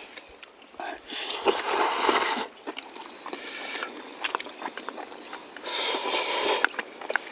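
Jjajangmyeon noodles slurped three times, the middle slurp short, with chewing and small mouth clicks between.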